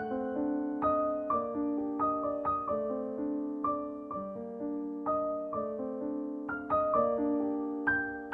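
Gentle background piano music, single notes and chords struck about twice a second over sustained lower notes.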